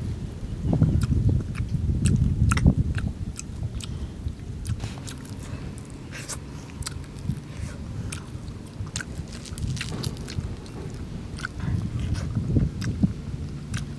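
A person biting and chewing cooked whole fish, eaten by hand, with many short smacking clicks of the mouth. A low rumble runs underneath, strongest in the first few seconds and again near the end.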